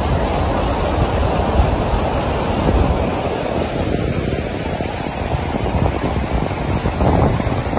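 A steady rushing noise with no distinct events or pitch.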